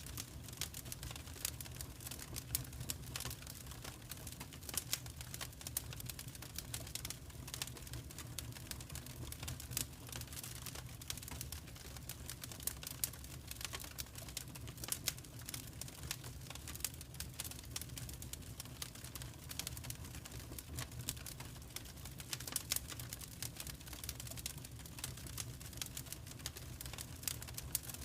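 Fire in a fireplace crackling: dense, irregular sharp pops and snaps over a steady low rumble of the flames.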